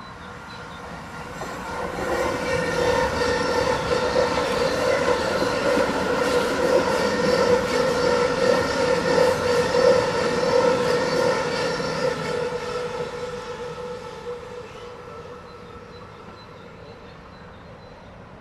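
A train passing by: its noise swells over about two seconds, stays loud for some ten seconds, then fades away. A steady whine runs through the rumble, with rapid clicking of the wheels on the rails.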